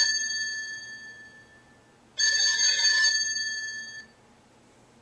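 Cell phone ringtone sounding like a telephone bell. Two rings come about three seconds apart, each starting suddenly and then fading away. The first is already dying away at the start, and the second comes about two seconds in.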